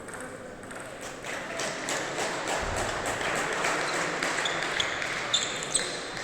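Table tennis balls clicking and bouncing in a sports hall, with a few short shoe squeaks on the floor in the second half over a rising haze of background noise.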